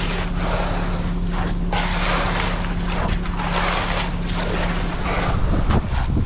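Concrete mixer truck's engine running steadily, with a rushing noise that swells and fades over it several times.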